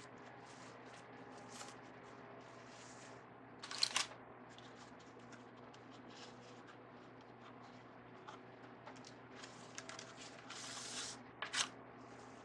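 Ribbon rustling and crinkling as it is handled and looped into a bow, faint, with sharper crinkles about four seconds in and again near the end.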